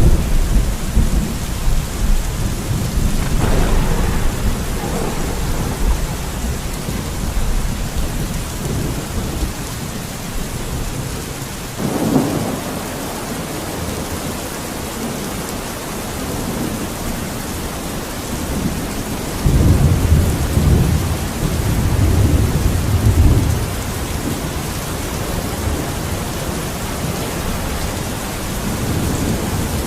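Steady rain falling, with low rumbles swelling through it: one in the first few seconds, a short one about twelve seconds in, and a longer one from about twenty to twenty-three seconds in.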